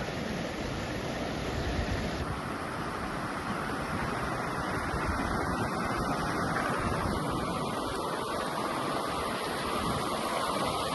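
Wind blowing across the microphone on an exposed hilltop: a steady rushing that swells and eases slightly without ever stopping.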